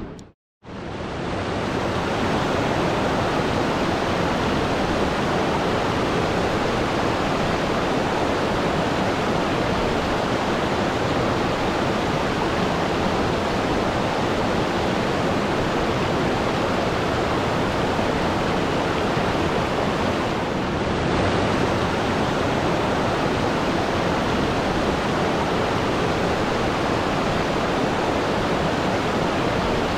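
Steady rushing water with an even, unbroken roar, typical of a waterfall or rapids. It breaks off for a moment just after the start, then fades back in.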